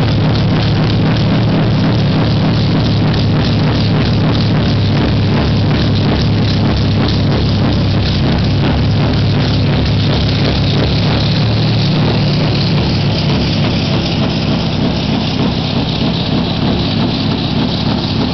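Scania R500 V8 truck engine running at a steady speed, an even, loud drone that eases off slightly over the last few seconds.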